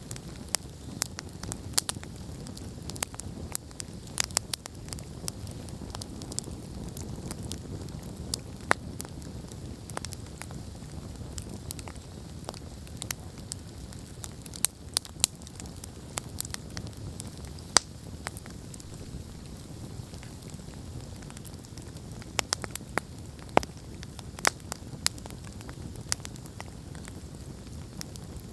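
Wood campfire burning: a steady low rumble of flames with irregular sharp crackles and pops from the burning logs, several a second, a few of them much louder than the rest.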